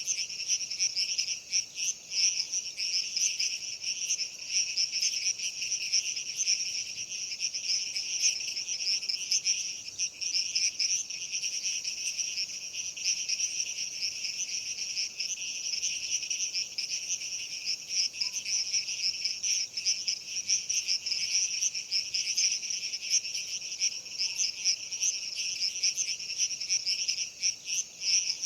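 A dense, unbroken chorus of crickets chirping, a shrill pulsing trill in two pitch bands, one higher than the other.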